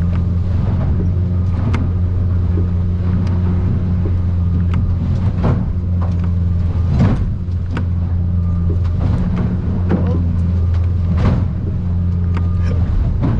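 Outboard motor drone from a small aluminium boat running through rough water. Sharp slaps and splashes come every second or two as the hull pounds into the waves.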